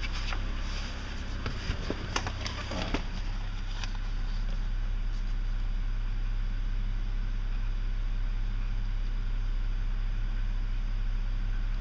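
BMW E90 330i's 3.0-litre straight-six running steadily with the knocking, ticking noise that sounds like a diesel, once only at cold start and now all the time. A few sharp clicks and knocks stand out in the first three seconds.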